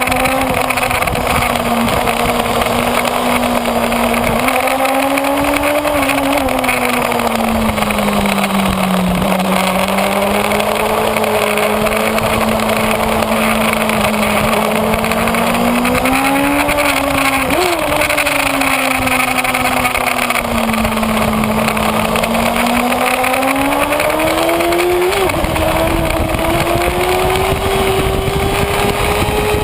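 Kawasaki Ninja ZX-6R's inline-four engine heard from on board at speed, its pitch rising and falling smoothly through the corners, with two brief sharp jumps in pitch. A steady rush of noise runs underneath.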